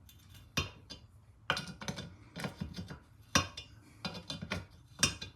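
Metal spanner clicking and clinking against the fittings of a British Seagull outboard as a nut is worked loose, a string of irregular sharp clicks about every half second.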